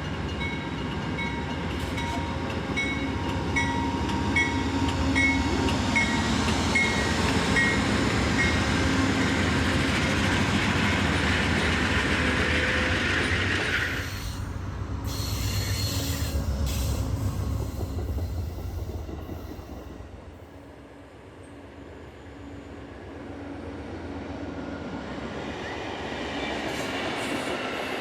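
A train rolling past on the rails, with a low engine rumble and wheel noise. The sound changes abruptly about halfway through, dips briefly, then builds again near the end.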